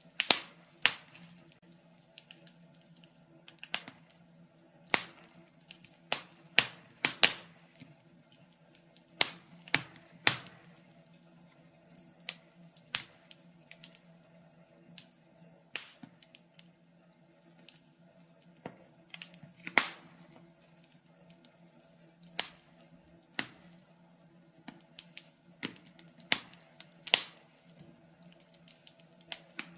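Wood fire in a fireplace crackling, with sharp irregular pops about every second over a faint steady hum.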